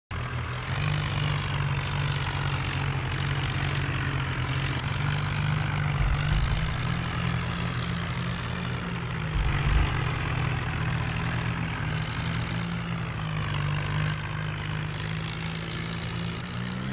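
Tractor engine running steadily, with a couple of low thumps about six and ten seconds in.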